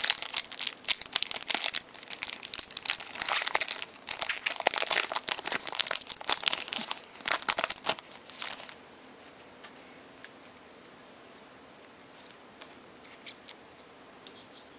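Plastic or foil trading-card pack wrapper crinkling and tearing as the pack is opened, for about eight and a half seconds, then it stops and only a few faint light clicks remain.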